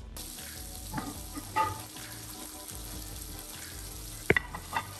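Spiced chicken pieces sizzling in hot oil in a non-stick frying pan, with a few clicks of a spatula against the pan, the sharpest a little past four seconds in.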